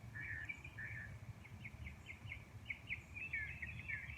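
Songbirds chirping: scattered calls, then a quick run of short chirps, and warbling notes near the end, over a steady low background rumble.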